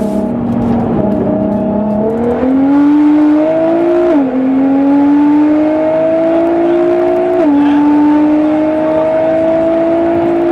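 Nissan GT-R R35's twin-turbo V6, tuned to about 700 hp, accelerating hard at full throttle: the engine note climbs steadily through each gear, with quick upshifts about four and seven and a half seconds in.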